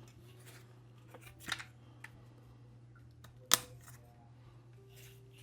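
Sharp plastic clicks as parts are popped out of a remote controller's plastic shell, a few separate snaps with the loudest about three and a half seconds in, over a steady low hum.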